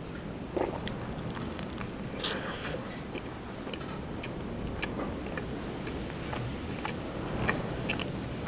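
Close-up chewing of a mouthful of chicken shawarma: many small wet mouth clicks and smacks, with a brief rustle about two seconds in.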